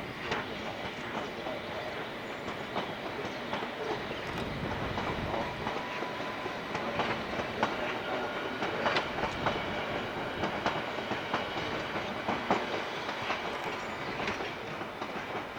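A train running along the track with a steady rumble, its wheels clicking irregularly over rail joints.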